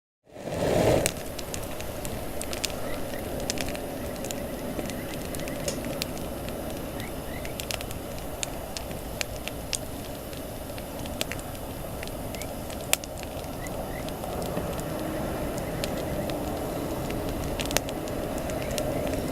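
Wood campfire crackling, with irregular sharp pops and snaps over a steady rushing flame noise.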